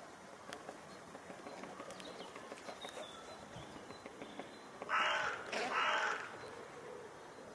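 A bird gives two harsh, raspy calls in quick succession about five seconds in, each lasting about half a second, over faint scattered tapping.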